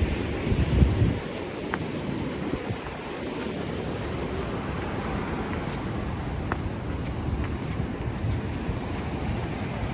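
Wind buffeting the microphone over the wash of Pacific Ocean surf: a steady low rushing, with a louder gust under a second in.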